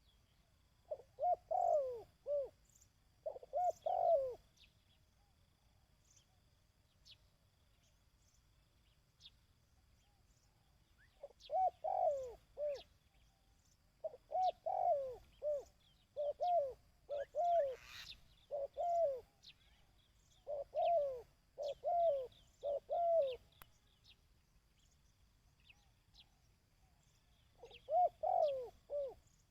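Dove cooing in repeated short phrases of a few low coos each, the phrases coming in runs with pauses of several seconds between runs. Faint high chirps of small birds are heard behind.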